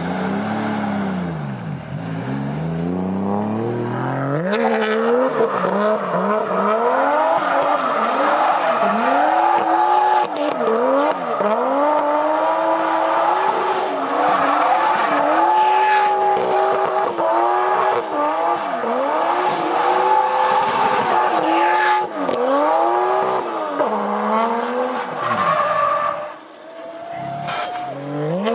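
Turbocharged 1JZ straight-six in a Nissan 240SX S13 doing a burnout: the engine revs rise and fall over and over while the spinning rear tyres squeal. The revs sag low about two seconds in before climbing again, and briefly drop near the end.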